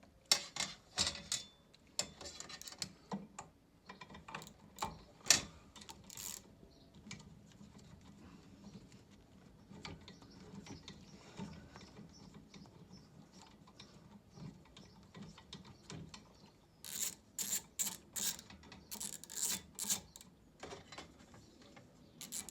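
Hand tool clicking and rattling on metal as the small bolts holding the motor to the gearbox of a Stannah 600 stairlift are undone. Scattered sharp clicks in the first few seconds, a quieter stretch, then a quick run of clicks a few seconds before the end.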